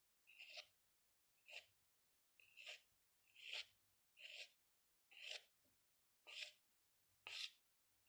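Pen strokes on paper, about one a second, eight short separate strokes in all.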